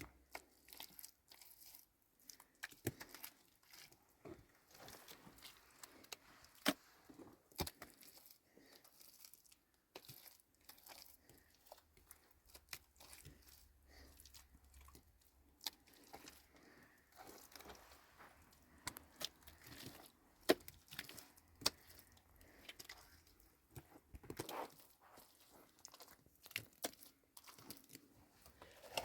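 Faint, irregular clicks, knocks and rustling from things being handled, scattered throughout.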